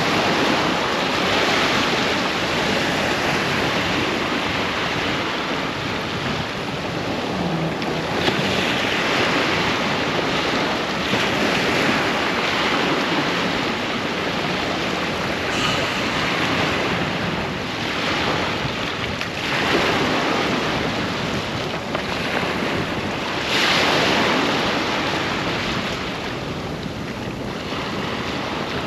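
Ocean waves breaking and washing on a sandy beach, surging every few seconds, with wind buffeting the microphone.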